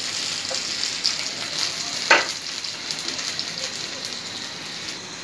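Raw onion rings sizzling and crackling in hot ghee on a preheated iron tawa, with a brief louder sound about two seconds in. The sizzle slowly fades toward the end.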